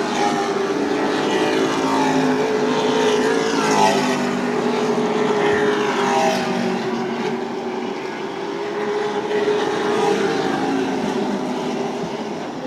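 A field of Super Truck race engines running at racing speed on an oval. Several engines sound at once, with pitches rising and falling as trucks pass, about four and six seconds in.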